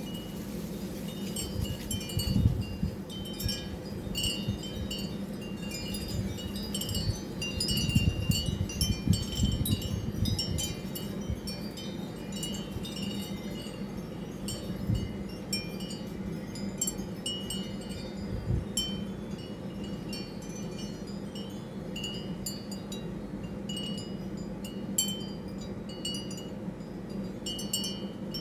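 Wind chimes tinkling irregularly throughout, over a steady low hum, with low rumbles swelling about two seconds in and again around eight to ten seconds.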